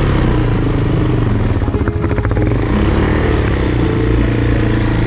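Off-road vehicle engine running steadily, dropping for a moment about two seconds in to a slow pulsing beat.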